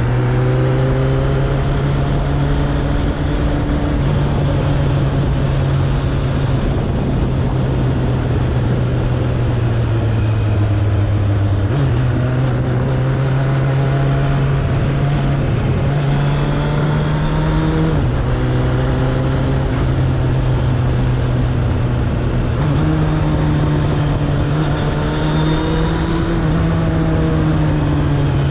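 Suzuki Bandit 1200's inline-four engine running under way, a steady loud note that sags slowly and then steps up and down in pitch several times as throttle and gears change, over a constant rush of wind noise.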